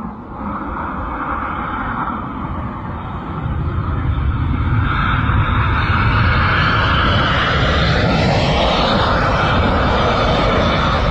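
Fixed-wing aircraft engine noise, a loud steady roar with heavy low rumble. It grows louder a few seconds in, and its pitch sweeps downward about eight seconds in.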